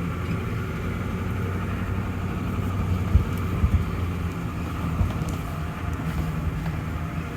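1993 Ford F350's 7.3 IDI diesel V8 running steadily at low speed, heard from inside the cab. A few short thumps about halfway through come from the truck jolting over the bumpy driveway.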